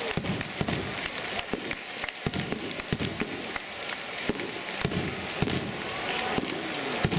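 Aerial fireworks bursting overhead: a dense run of sharp crackling pops, several a second, with one louder bang near the end.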